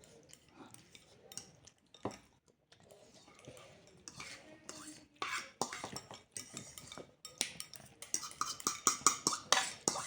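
Eating utensils clinking and scraping against plates and bowls during a meal. The clicks are sparse at first and come thicker and louder in the second half.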